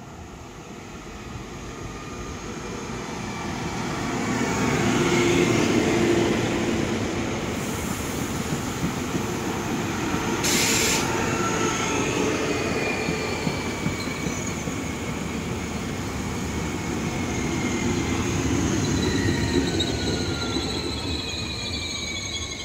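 Alstom Régiolis regional train passing through along the platform without stopping: its running noise and wheels on the rails build up, stay loud for about fifteen seconds as the long train goes by, then begin to fade. Several falling whines sound as it passes, and a brief hiss about ten seconds in.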